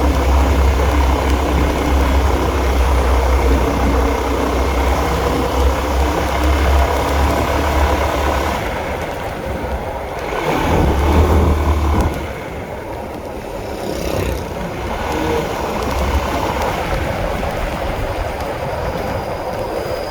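Honda CB150R's single-cylinder engine running while riding, with wind and road noise. Its low drone drops away about eight and a half seconds in, comes back briefly around eleven seconds, then stays lower.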